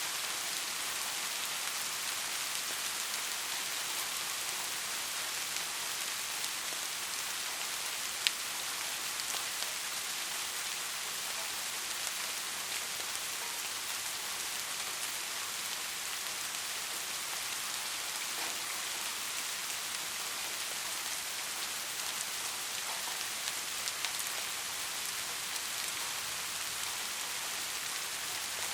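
Steady rain falling, an even hiss with scattered drop ticks and one sharper drop hit about eight seconds in. No thunder.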